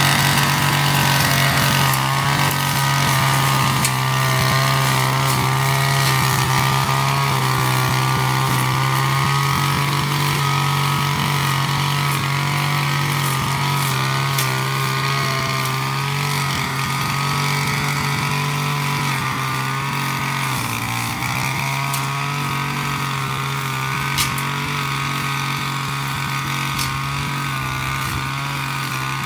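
25 cc BIGM BC260T brush cutter's two-stroke engine running steadily at high speed while cutting grass, with scattered sharp ticks. The engine speed dips briefly about twenty seconds in, then picks up again.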